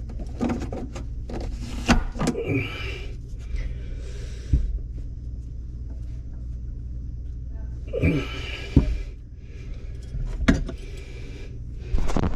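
Scattered clicks, knocks and rustling of plumbing parts and tools being handled, over a steady low hum.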